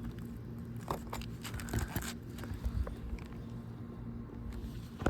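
Crackles and clicks from an asphalt shingle being pried up, its sealant strip tearing loose, clustered between about one and two seconds in, over a steady low hum.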